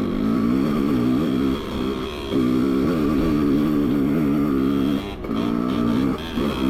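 Dirt bike engine running at low revs, the note wavering as the throttle is worked, with a few brief dips where the rider rolls off.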